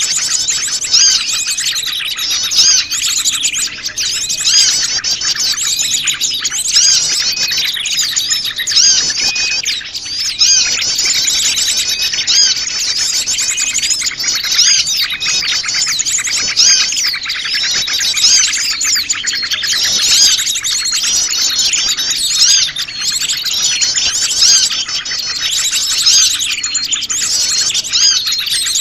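A dense chorus of many small wild birds chirping and trilling over one another without a break: a mixed small-bird lure recording meant to draw in wild small birds.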